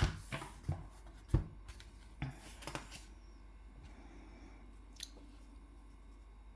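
A handful of short clicks and light knocks from drawing tools being handled on the desk, mostly in the first three seconds with one more about five seconds in, over a faint steady room hum.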